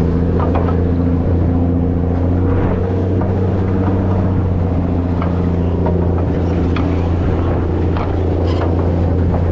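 Steady low drone of a container ship's engine and machinery heard on board, with a few faint clicks.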